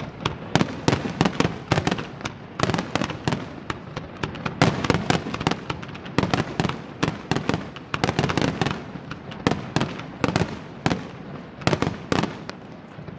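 Aerial fireworks display: a rapid, dense run of shell bursts and crackling reports, several bangs a second, thinning out near the end.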